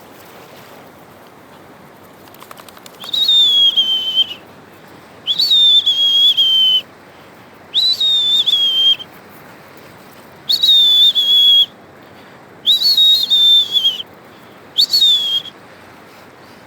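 A person whistling six long, high notes about two seconds apart, each starting with a quick upward flick and then sliding slightly down in pitch.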